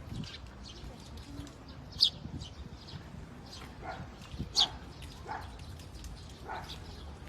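Short animal calls, several in a row, with two sharp high ones about two seconds and four and a half seconds in that stand out as the loudest.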